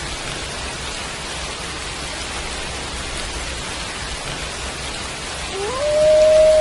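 Steady rain falling. Near the end a wolf begins a howl, its pitch rising and then holding as one long note.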